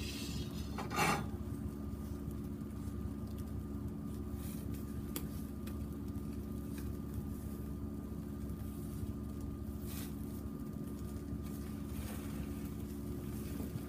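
Steady low mechanical hum with a few constant tones, with a brief rustle about a second in and a few faint clicks later.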